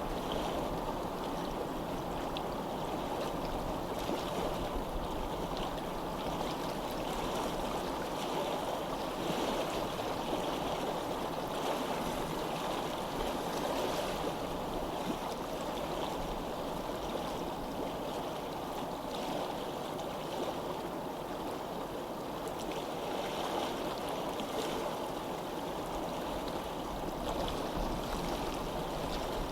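Steady rushing of running water, with no break or change in level.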